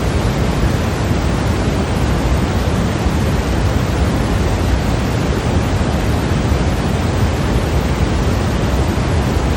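Steady synthetic white noise: an even, unbroken hiss, weighted toward the low end, that doesn't change.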